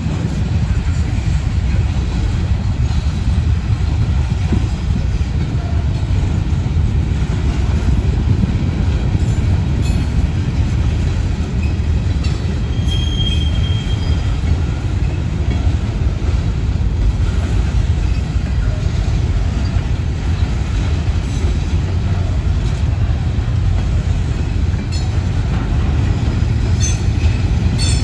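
Loaded rock train's open-top cars rolling past: a steady low rumble of steel wheels on rail. A brief high wheel squeal comes about halfway through, and a few clicks sound near the end.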